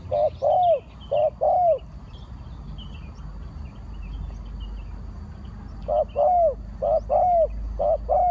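Spotted dove cooing: repeated two-note phrases, a short note followed by a longer arched one, in two bouts with a pause of about four seconds between them. Small birds chirp faintly in the background.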